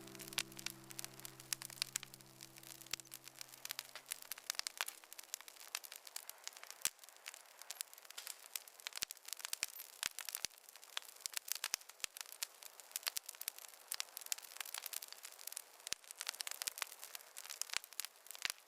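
Wood fire in a fireplace crackling, with dense, irregular small pops throughout. The last sustained notes of soft background music fade out over the first few seconds.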